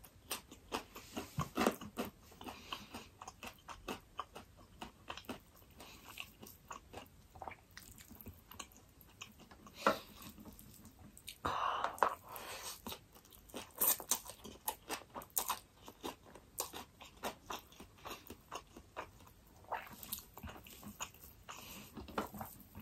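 Close-miked eating sounds from a person eating rice and curry with her hand: chewing and lip smacks with many small wet clicks, and a louder mouthful about halfway through.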